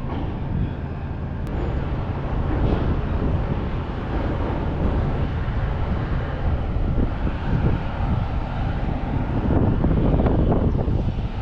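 Steady low rumble of the ferry's engines with wind gusting across the microphone on the open top deck.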